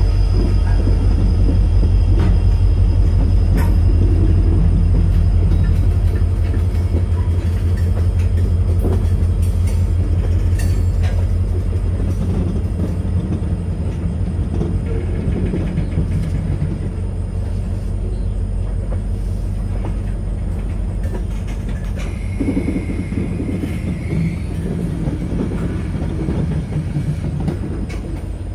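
Covered hopper cars of a freight train rolling past: a steady low rumble and clatter of wheels on rail, slowly getting quieter, with a brief high squeal about three quarters of the way through.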